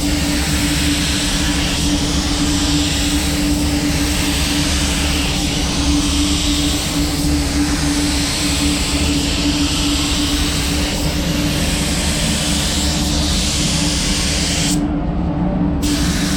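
Paint booth ventilation running with a steady hum under the hiss of a spray gun laying on clear coat, the hiss swelling with each pass. The hiss stops for about a second near the end while the hum carries on.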